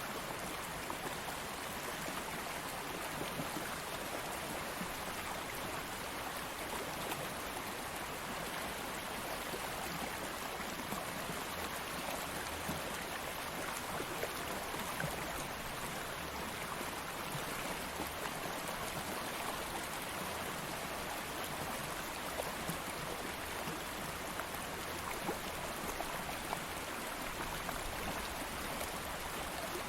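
Stream water flowing steadily over stones, an even rush of splashing and trickling.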